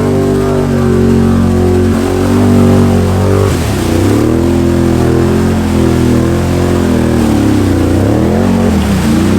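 Can-Am Outlander 850 XMR's V-twin engine through an MBRP performance exhaust, held at steady high revs, then revving up and down repeatedly from about three and a half seconds in. The quad is working hard through a deep, rutted mud hole.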